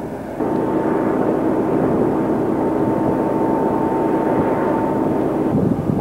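Aircraft engine noise: a steady rush with a held whine. It cuts in about half a second in and cuts out shortly before the end.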